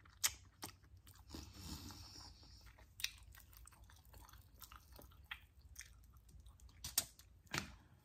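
Faint close-up chewing and biting into crispy fried chicken wings: soft crunches and mouth sounds, with a few sharper crunches scattered through.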